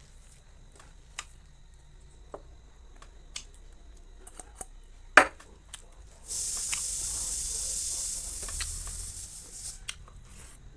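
Eating sounds: scattered small clicks and smacks from chewing and handling food, with one sharp click about five seconds in. A steady hiss follows for about three seconds after that.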